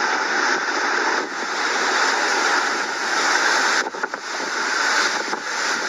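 Loud, steady rushing hiss of hurricane rain and wind, dipping briefly about a second in and again about four seconds in.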